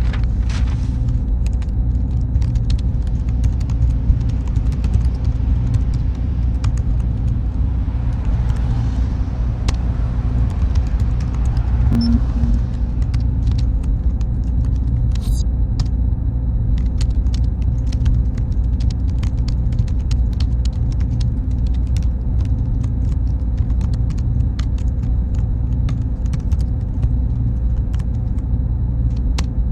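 Server-room ambience: a steady low rumble of cooling fans and air handling, with faint constant hum tones and scattered faint ticks.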